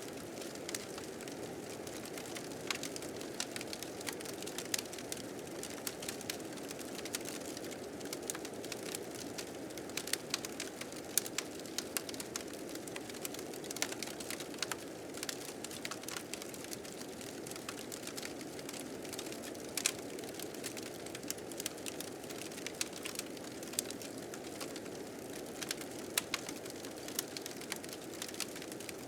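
Wood fire crackling with frequent irregular sharp pops over a steady rush of blizzard wind.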